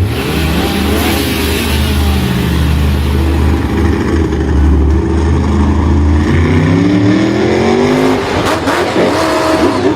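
Engine revving, its pitch sinking over the first few seconds, then climbing steadily until it breaks off about eight seconds in into rougher, choppier sound.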